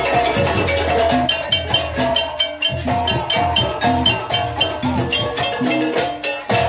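Jaranan Banyuwangi ensemble music accompanying a dance: repeated pitched metal-keyed notes over busy drum and knocking percussion strokes.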